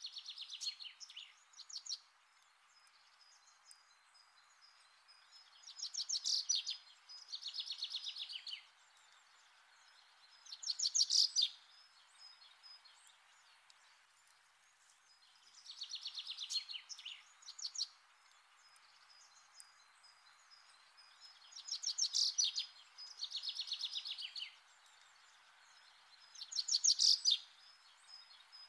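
A songbird singing short, rapid trilled phrases, often two close together, repeating every five seconds or so over a faint steady hiss.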